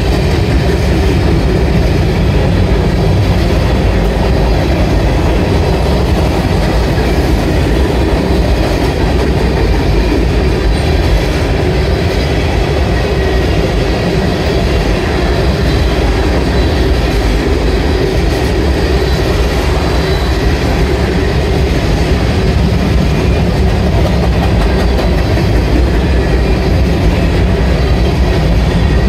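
Freight train tank cars and covered hopper cars rolling past, a loud, steady rumble and rattle of steel wheels on the rails.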